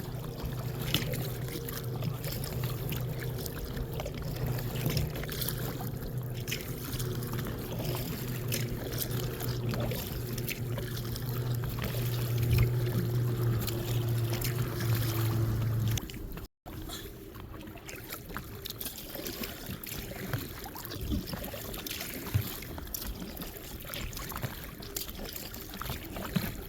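A kayak's small motor running with a steady drone, while water splashes and trickles around the hull. About two-thirds of the way through, the drone stops abruptly, leaving only the water sounds.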